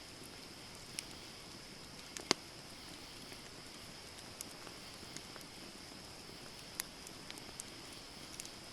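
Wood campfire burning: scattered sharp crackles and pops over a steady high hiss, with the loudest pop about two seconds in.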